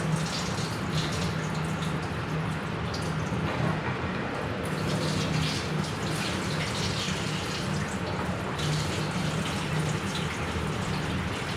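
Gasoline pouring from a gas can into a tractor's fuel tank, a steady liquid rush over a low steady hum.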